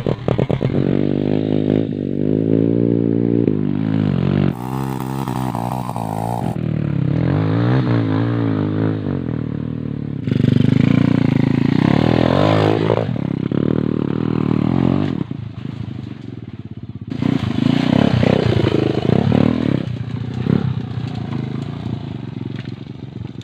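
Small motorcycle engine of a Rossi 110 trail bike being ridden, revving up and down with the throttle so its pitch repeatedly rises and falls. It dips quieter past the middle and comes back up again.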